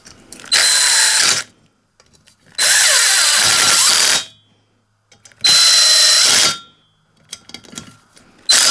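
Power drill driving in the bolts of the engine plate on a Stihl BR86c engine: three runs of about one to one and a half seconds each, then a short burst near the end.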